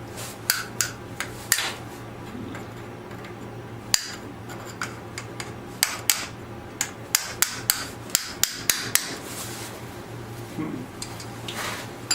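Light hammer taps on metal, scattered at first, then a quicker run of about two a second, as the gear-shifter safety rod is knocked free of a Ferguson TEF tractor's starter.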